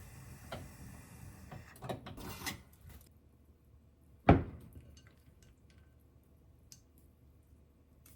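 Kitchen handling sounds: a few light clicks and clinks of dishes and utensils, then one sharp knock a little past four seconds in, followed by faint small ticks.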